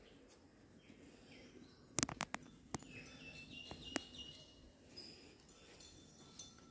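Quiet outdoor ambience with birds chirping in short high notes. A few sharp clicks come about two seconds in and one more near four seconds.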